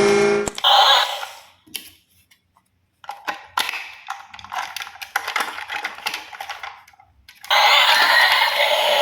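Small hard toys clicking and rattling against each other in irregular bursts, with a short buzzing tone at the very start and a steady rushing noise taking over about seven and a half seconds in.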